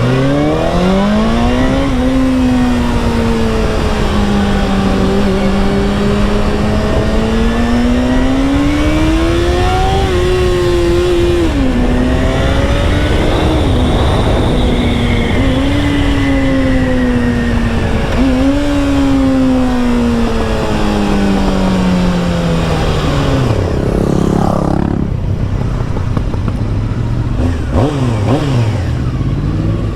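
Honda CBR600 sport bike's inline-four engine under way, its pitch climbing under acceleration and dropping sharply at gear changes, over heavy wind rush. About 23 seconds in the revs fall away as the bike slows, followed by a few quick blips of the throttle near the end.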